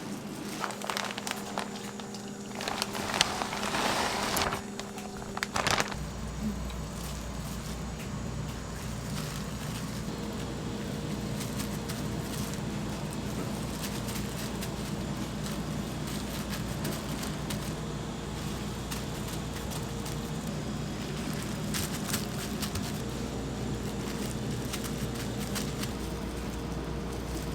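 Restaurant kitchen work sounds: crackling and rustling noise with a few clicks for the first six seconds or so, then a steady low hum.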